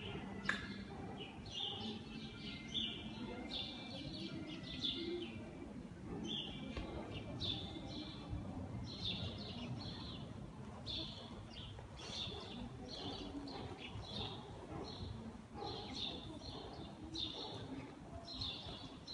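Small birds chirping repeatedly inside a hall, short high chirps coming about once a second, over a low, even background noise.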